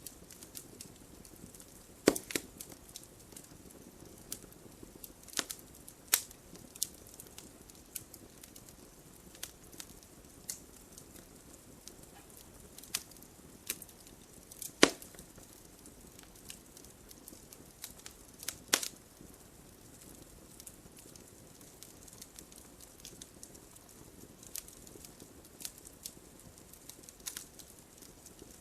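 Wood fire burning in a fireplace: a low steady hiss with irregular crackles and sharp pops, a few of them much louder than the rest.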